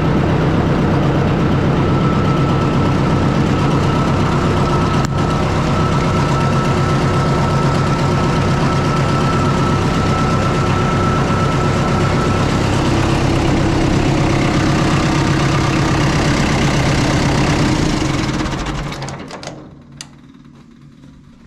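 Oliver 66 tractor's four-cylinder diesel engine running steadily with a tick from a cracked cooling-fan blade, then shut off about eighteen seconds in, running down to a stop over a second or so. A single sharp click follows near the end.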